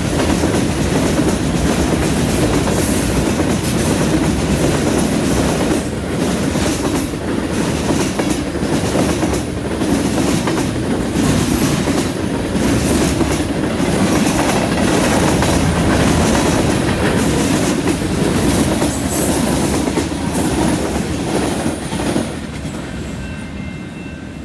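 Freight cars of a passing train rolling by at close range: a steady heavy rumble with the wheels clicking over the track. Near the end it fades as the last cars pull away.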